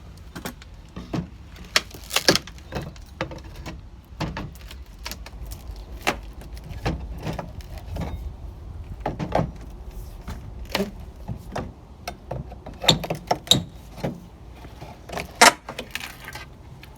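Wood-handled hammer tapping a crowbar to pry old window trim off the frame: irregular sharp knocks and metallic clinks, several louder strikes near the end.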